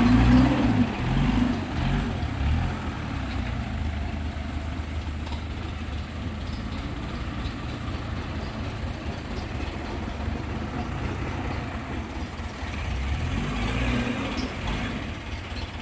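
Truck engine running, revving near the start, settling to a steady low run, then revving up again near the end.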